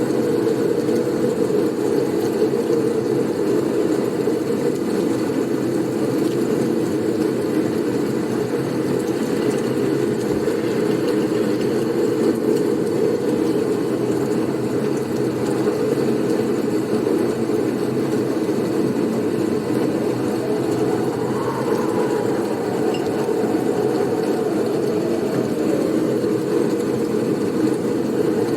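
Blizzard wind as a continuous low, steady rushing rumble, with a faint higher whistle wavering briefly about two-thirds of the way through.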